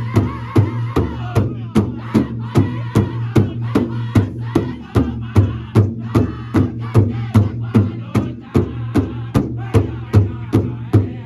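Powwow drum group singing in high-pitched unison over a big drum struck in a steady, even beat.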